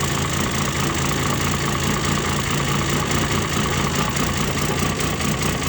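Cummins diesel engine idling steadily just after a hard cold start, still cold.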